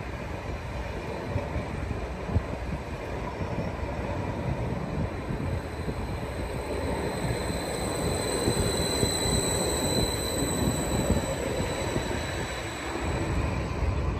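A train running on the rails, a steady rumble and rattle of wheels, with a high squeal joining in about halfway through and fading near the end.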